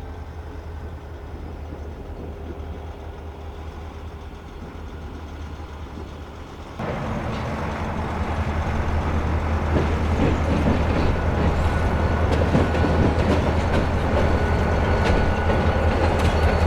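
Diesel freight train of EMD locomotives running along the track, a steady low rumble that abruptly gets louder about seven seconds in, with wheels clicking over rail joints near the end.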